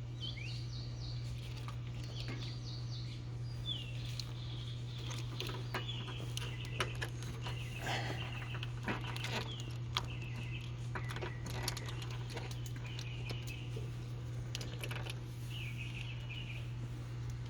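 Small birds chirping in short, curving calls, over a steady low hum, with scattered clicks and taps from parts being handled and opened on the mower.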